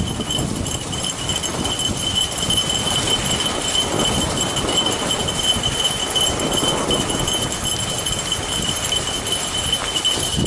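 Snow bike riding along a snowy trail with dogs running and pulling, with clattering and jingling over a steady high-pitched whine.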